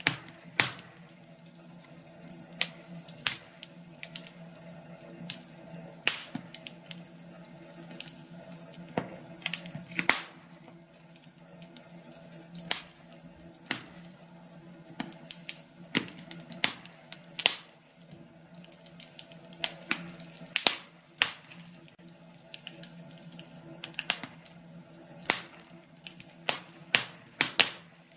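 Wood fire burning in a fireplace: irregular sharp crackles and pops from the burning logs, sometimes several close together, over a low steady rush of the flames.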